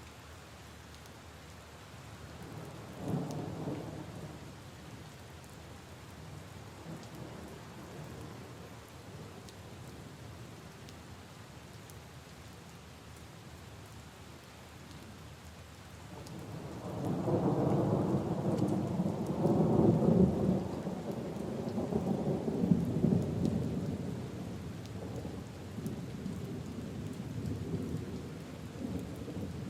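Steady rain falling on leaves and puddles, with a short low rumble of thunder about three seconds in. Just past halfway a long rolling thunder rumble builds up and becomes the loudest sound, rolling on to the end.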